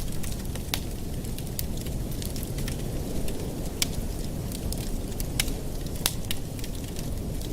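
Wood fire crackling in a fireplace, with a steady low rumble of burning and about half a dozen sharp pops and snaps scattered through it.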